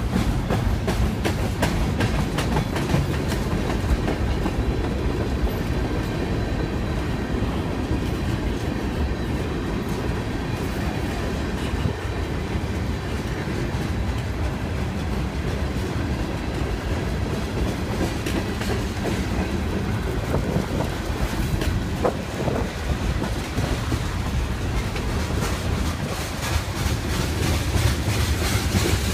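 BNSF mixed freight train of boxcars, tank cars and covered hoppers rolling past close by: a steady low rumble of wheels with rapid clicks of the wheels on the rails.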